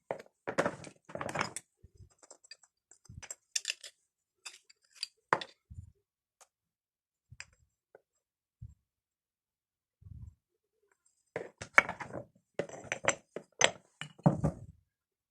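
Scattered clinks, knocks and handling noises of small hard objects, coming in short clusters with quiet gaps between them and busiest near the end.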